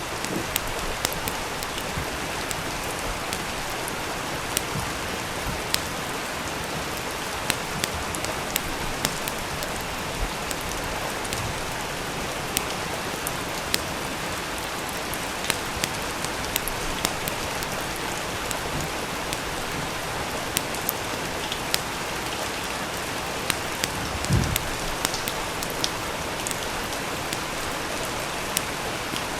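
Steady rain with a wood fire crackling, irregular sharp pops scattered over the even hiss of the rain; one low thump late on.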